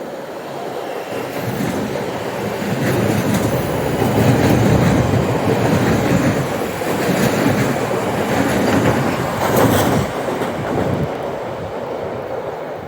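Train passing along the platform: its noise builds over the first few seconds, stays loud through the middle and eases off near the end.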